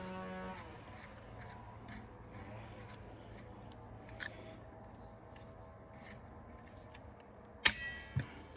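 Light metallic clicks of hand tools working on motorcycle engine parts, then a loud sharp metal clink with a brief ring near the end and a duller knock just after. A steady hum stops about half a second in.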